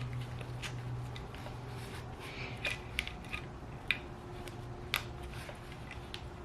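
Small metallic clicks and taps of a screwdriver and parts as a motorcycle engine's cam chain tensioner is worked into place. Three sharper clicks come about three, four and five seconds in, over a steady low hum.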